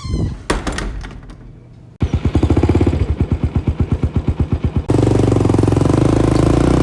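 A loud mechanical sound effect. A few knocks come first, then about two seconds in a rapid pounding starts at about nine beats a second, and near the end it becomes a denser, steady running.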